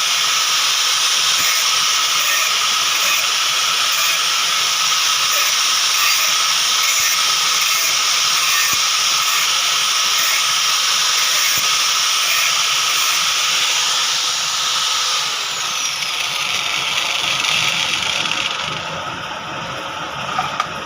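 A power tool running steadily with a hissing whir, dropping in level over the last few seconds.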